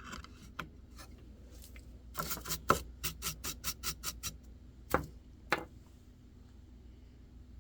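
Hand carving in white birch: a quick run of about ten short, sharp cutting strokes, then two more a moment later.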